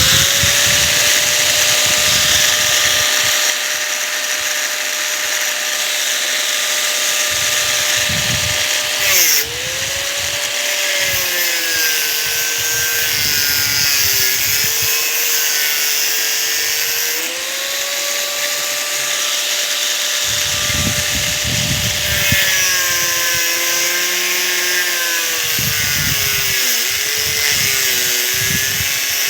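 Electric power cutter running at high speed and cutting steel rebar, with a steady motor whine over a dense hiss. The pitch sags as the wheel bites into the bar, about nine seconds in, again midway and near the end.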